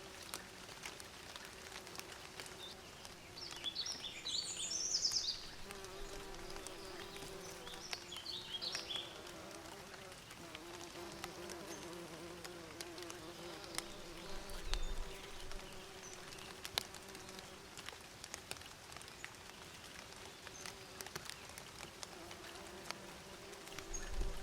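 Bees buzzing in a steady, wavering hum that swells and fades as they come and go. Short bursts of bird chirps about four seconds in and again around eight seconds.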